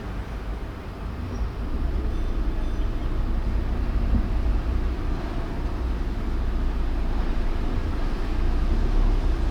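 Car driving through city traffic: a steady low rumble of road and engine noise that grows louder about a second in.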